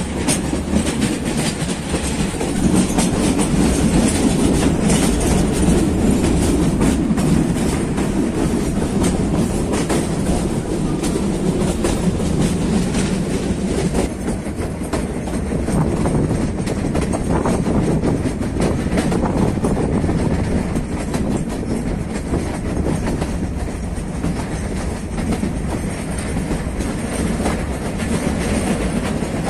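Meter-gauge passenger train running: a steady rumble with the wheels clicking over rail joints, a little duller from about halfway on.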